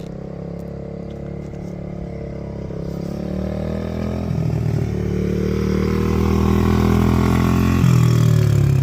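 Baja 50 mini dirt bike's small engine running and being revved as the bike gets under way, growing steadily louder, with the engine note changing about four and eight seconds in. The bike is running again after its no-start repair.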